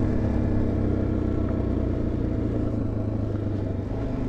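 Single-cylinder supermoto motorcycle engine idling steadily, heard muffled through a helmet-mounted mic.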